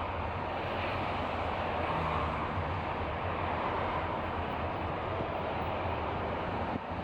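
Steady rumble and hiss of a moving vehicle, with a low hum underneath.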